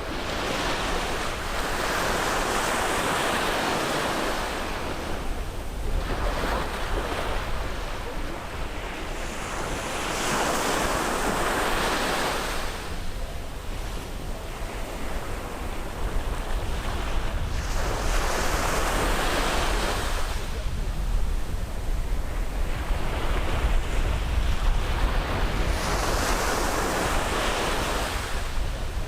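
Ocean surf breaking on the shore, a wave surging in and washing back about every eight seconds, four times in all.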